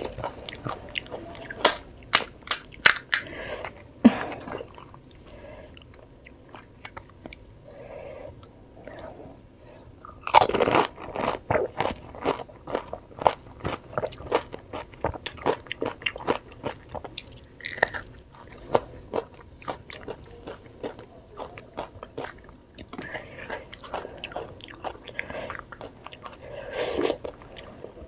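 Pani puri being eaten close to the microphone: crisp fried puri shells crunching between the teeth and being chewed. Sharp crunches come near the start, and a loud crunch about ten seconds in is followed by several seconds of rapid crackling, then quieter chewing.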